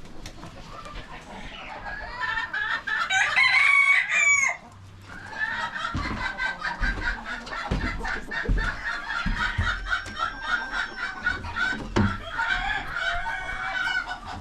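Rooster crowing once, loud and drawn out for about two seconds before it cuts off, then chickens clucking on and on, with a few low thumps in among the clucking.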